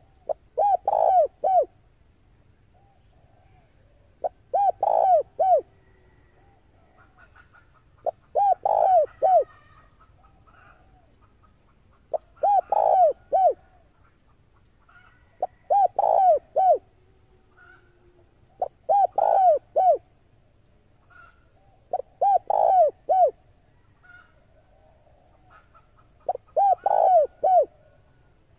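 Male spotted dove (tekukur) cooing: a short phrase of three or four low notes, repeated about every four seconds, eight times.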